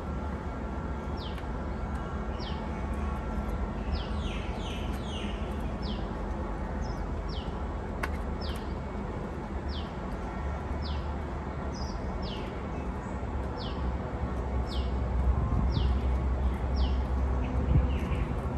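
A bird calling over and over, a short falling chirp about once a second, above a steady low rumble and hiss that grows louder near the end. One sharp click about halfway through.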